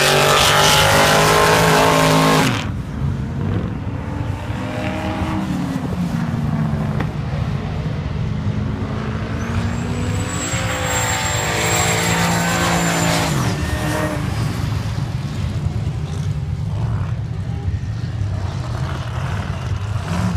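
Car engines on a race track: one engine revving hard at first and cutting away about two and a half seconds in, then more distant engines revving and rumbling, with a thin high whistle for a few seconds around the middle.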